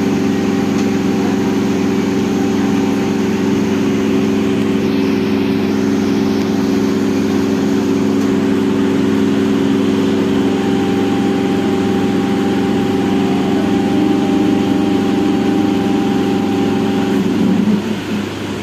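Steady droning hum of a train, a stack of even tones holding level, which wavers and falls away near the end.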